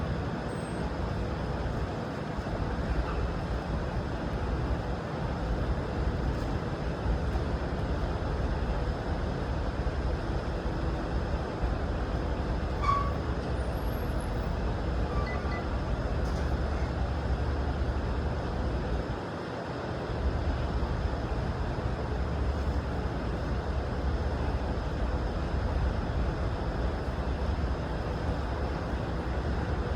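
Steady low rumble of vehicle engines and traffic noise, dipping briefly about two-thirds of the way through.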